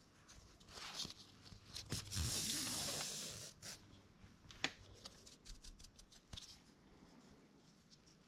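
Hands working a nylon starter rope into a knot: faint rustling and rubbing with small ticks, a louder rubbing hiss about two seconds in lasting about a second, and a sharp click a little past the middle.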